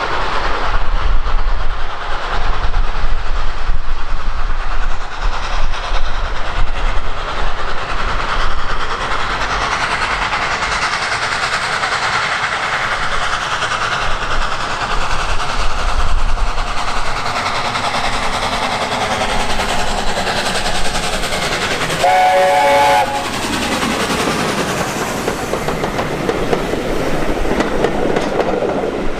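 Heritage standard-gauge train running past, wheels clattering over the rail joints, loudest in the first several seconds. About 22 seconds in, the locomotive gives one short warning blast of about a second.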